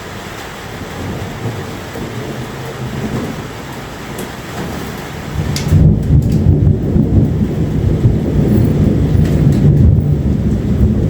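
Thunder rumbling over steady rain; the deep rumble swells sharply about halfway through and keeps rolling.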